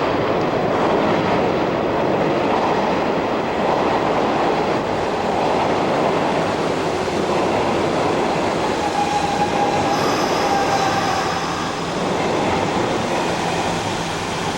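Hanshin electric train running in the underground station: a steady rumble and roar of wheels and motors, with a brief high squeal of wheels or brakes about two-thirds of the way through.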